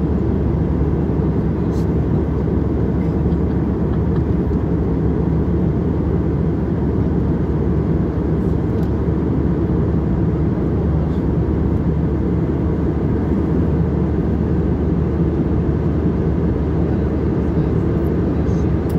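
Steady engine and airflow noise of a passenger airliner, heard from inside the cabin as an even, unbroken roar.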